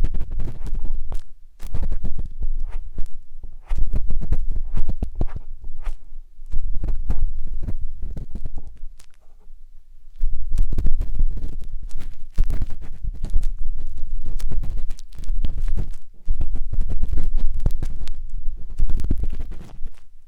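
An ear-cleaning tool scraping and rubbing inside the silicone ear of a 3Dio binaural microphone, a deep rumble with crackling, in repeated passes of a second or two with short pauses between.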